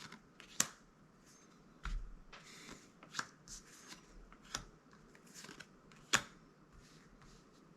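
Magic: The Gathering cards being handled and flipped through, with sharp snaps of card against card every second or so and a soft rustle about two seconds in.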